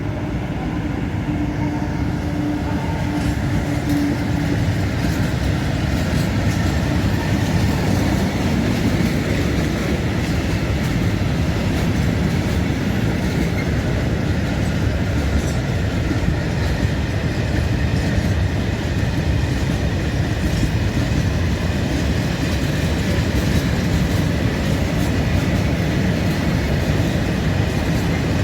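Freight train of open coal wagons rolling through a station, a steady rumble of wheels on rails with scattered clicks as the wheels pass over rail joints.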